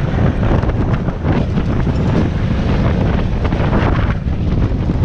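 Helicopter rotor and turbine running steadily, with wind buffeting the microphone.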